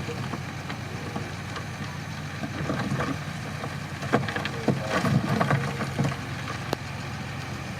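Crawler bulldozer's diesel engine running steadily, with a few sharp knocks, one about four seconds in and another near seven seconds.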